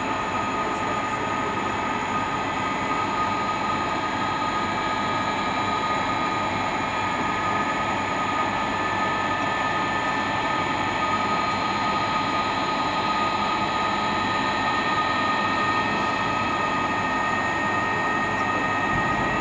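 Jet engines of a Boeing 777-222, Pratt & Whitney PW4000 turbofans, running with a steady rush and whine, one engine's whine rising slowly in pitch as it spools up during start, climbing faster near the end.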